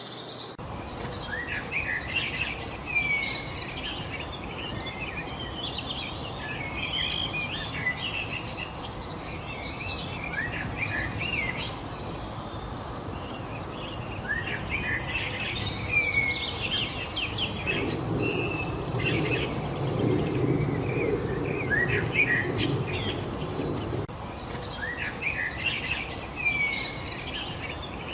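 Several small songbirds chirping and twittering in quick, overlapping short calls over a steady background hiss, with a low rumbling noise rising for several seconds past the middle.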